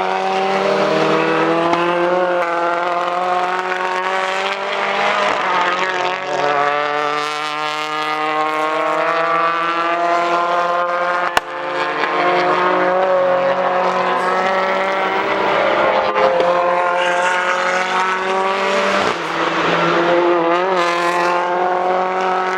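British Touring Car Championship race cars running at speed, their turbocharged four-cylinder engines overlapping, several notes rising and falling in pitch as the cars accelerate and change gear. A single sharp click comes about halfway through.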